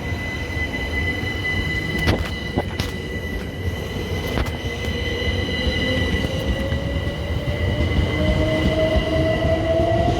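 Southern Class 377 Electrostar electric multiple unit pulling away from the platform. Its traction whine rises slowly in pitch as it gathers speed, over a steady high ringing tone and rumble, growing louder. A few sharp clicks come in the first half.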